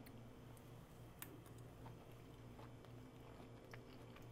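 Faint chewing of a mouthful of soft stuffed bell pepper, with scattered small mouth clicks over a low steady room hum.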